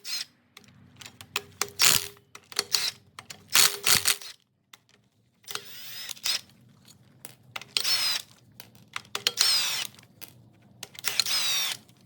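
Hand tools working metal on a 289 V8 engine under teardown: a few sharp clicks and knocks, then several runs of rapid mechanical clicking about a second long each, like a ratchet wrench being worked.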